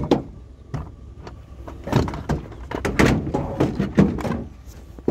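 A sharp knock, then a run of loud knocks and clatters from about two seconds in, like hard objects being handled and set down.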